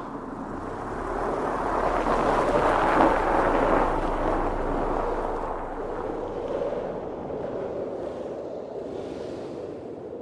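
Blizzard wind blowing in a rushing gust that swells to its strongest about three seconds in, then eases to a steadier blow.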